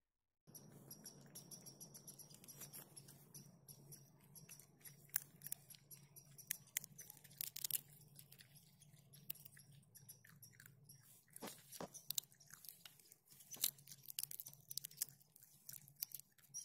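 Raccoon chewing and crunching peanuts close to the microphone: a quick, irregular run of sharp crunches and clicks over a low steady hum, starting about half a second in.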